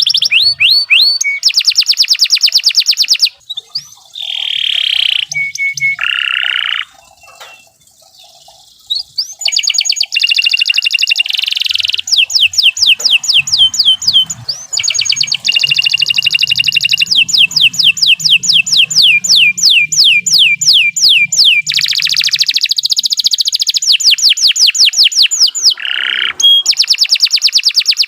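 Domestic canary singing long, rapid trills of quickly repeated sweeping notes, high-pitched, with a break in the song around seven to nine seconds in before it resumes.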